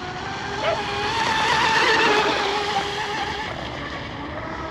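J&R Marine H26 RC hydroplane's water-cooled 3660 brushless electric motor whining as the boat runs across the water over a hiss of water. It grows louder to about two seconds in, then fades as the boat goes by.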